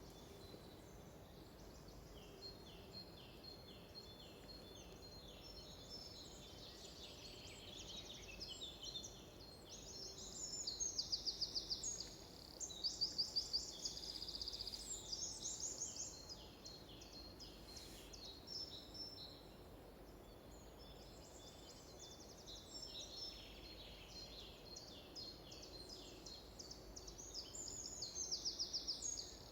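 Songbirds singing in a forest, several high, rapid trilled phrases overlapping, over a faint steady background hiss. The song is loudest about ten to sixteen seconds in and again near the end.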